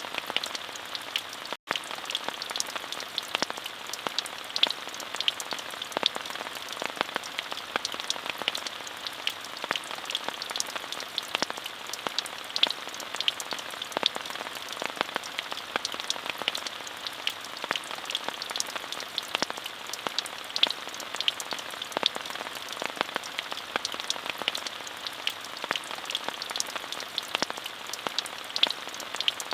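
Steady rainfall: an even hiss with many small, crisp drop impacts scattered through it. The sound cuts out for a split second about a second and a half in, then carries on unchanged.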